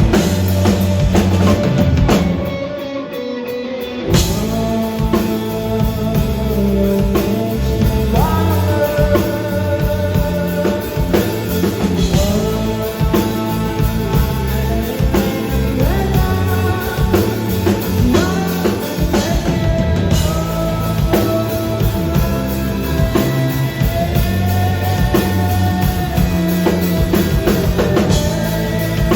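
Rock band playing live, with a drum kit, electric guitar and a singer. The drums and bass drop out about two seconds in, then the full band comes back in about two seconds later.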